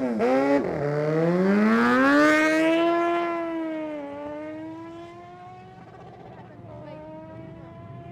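Superbike engine blipped once more on the start line, then launching down the drag strip, its note climbing hard and dropping briefly at each upshift, about 4 s and 6 s in, as it fades away into the distance.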